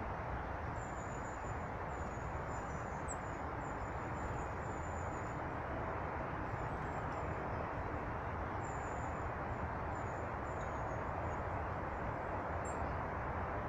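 Steady rushing background noise with thin, high-pitched calls of small birds coming in short runs throughout, including a quick upward chirp near the end.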